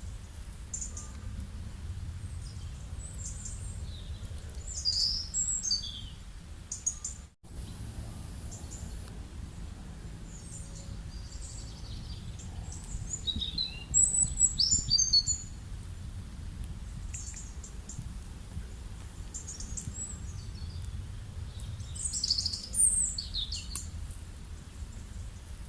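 Small birds chirping in scattered short high calls, with louder flurries about five, fourteen and twenty-two seconds in, over a steady low background rumble. The sound drops out completely for a split second about seven seconds in.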